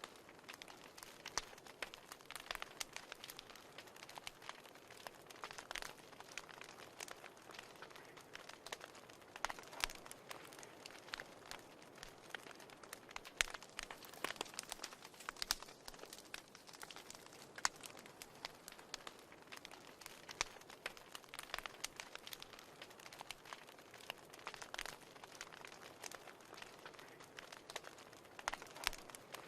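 Wood fire burning in a fireplace, crackling with irregular sharp pops and snaps, several a second, over a soft steady hiss.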